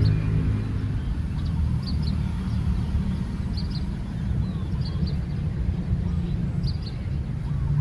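A vehicle engine running steadily at low revs, with faint high bird chirps, often in pairs, every second or two.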